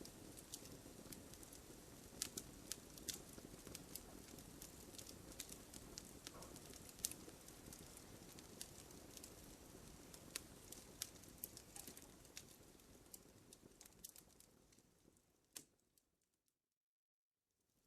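Wood bonfire crackling, with scattered sharp pops and snaps over a soft low rush of burning. The sound fades out about three-quarters of the way through, goes silent for a second or two, and starts to come back at the very end.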